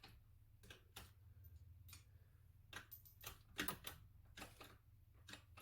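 Near silence with a faint low hum and scattered light clicks and taps, most of them bunched together a little past halfway through.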